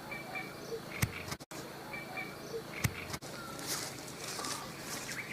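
Quiet outdoor ambience: a bird gives a short high chirp twice, two sharp clicks sound about a second and about three seconds in, and light rustling sets in near the end.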